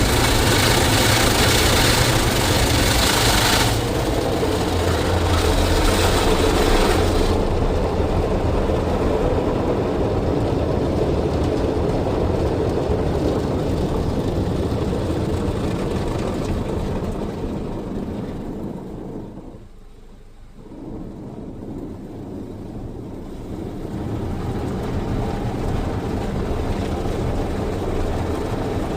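WashTec SoftCare SE rollover car wash in its brush cycle, heard from inside the car: spinning cloth brushes and water spray swishing against the body, with the machine's drive running. A loud, hissy spray for the first several seconds, then a duller churning that fades to a lull about two-thirds of the way through and builds again.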